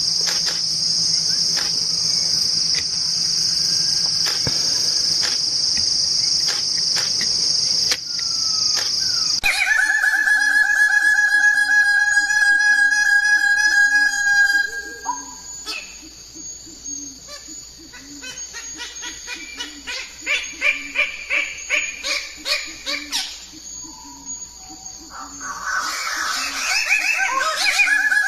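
A steady, shrill insect chorus like crickets for about the first nine seconds, then an abrupt change to birds calling: long held calls for several seconds, a run of rapid repeated chirps, and a burst of mixed calls near the end.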